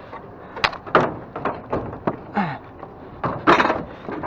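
Wooden furniture knocking and scraping as it is shifted and loaded into a crowded pickup bed: a string of irregular knocks and thuds, with a longer scrape about three and a half seconds in.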